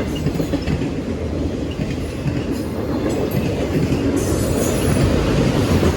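CSX autorack freight cars rolling past on the rails: a steady rumble of wheels with rail clatter, and a faint high wheel squeal about four seconds in.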